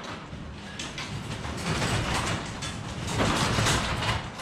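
Sectional garage door being worked by hand on its tracks, its rollers and panels rumbling and clattering, louder in two stretches. The door is being tested for balance just after its Wayne Dalton Torquemaster Plus spring was wound tighter.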